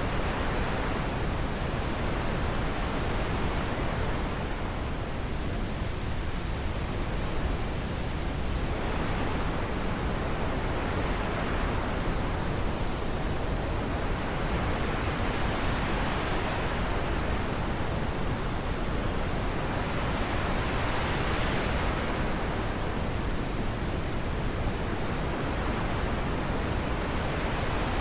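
Wind blowing steadily, its hiss swelling and easing in slow gusts every several seconds.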